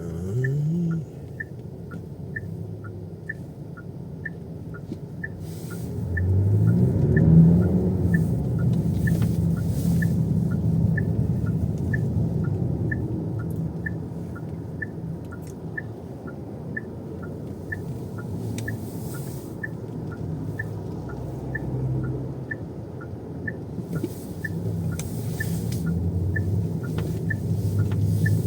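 Car turn-signal indicator ticking steadily, about two clicks a second alternating between a higher and a lower tick, over the car's engine and road rumble. About six seconds in, the engine note rises as the car pulls away.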